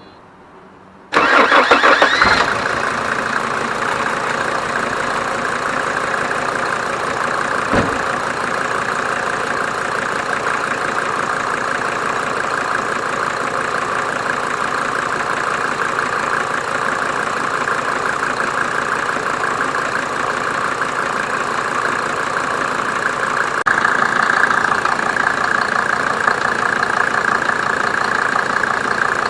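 Mercedes OM602 2.5-litre five-cylinder turbo diesel starting about a second in, briefly louder as it catches, then settling into a steady idle.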